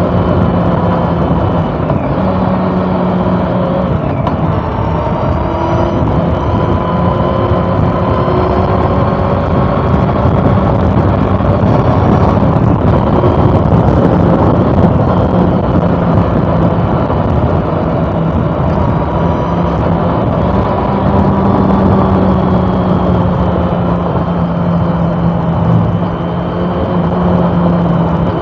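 A 2013 Honda CB400 Super Four Revo Hyper VTEC's inline-four engine running under way at a fairly steady cruise. Its pitch drifts slowly up and down over a loud, steady rush of noise.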